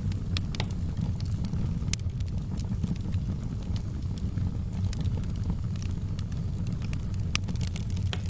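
Wood fire crackling in a fireplace: a steady low rumble of burning with scattered sharp pops and snaps, a few louder ones standing out.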